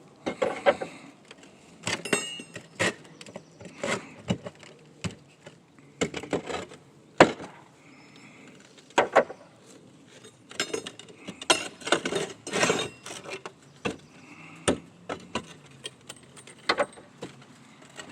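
Roof tiles being lifted off and set down, making irregular hard clinks and knocks, about one or two a second, with a few louder knocks along the way.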